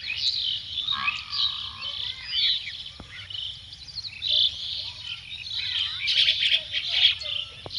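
Several birds chirping and singing at once, a dense run of quick overlapping chirps, trills and short whistled glides.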